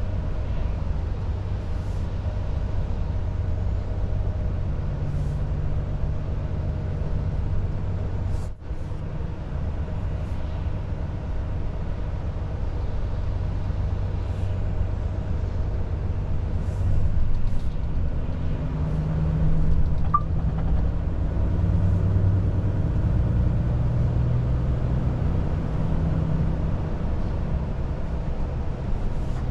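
Volvo FH 500 truck's six-cylinder diesel running under way, heard from inside the cab as a steady low drone over road noise. There is a brief dropout about eight seconds in, and it grows a little louder past the halfway mark.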